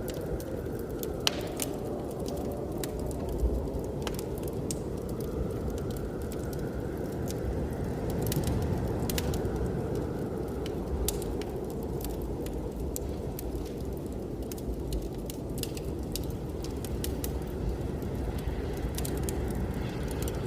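Wood fire crackling, with scattered sharp pops, over a steady low roar of blizzard wind.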